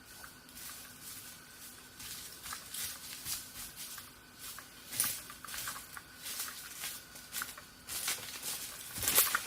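Irregular light rustling and crackling, like dry leaves and twigs being handled or stepped on. The sounds are sharper and denser near the end, over a faint steady high hum.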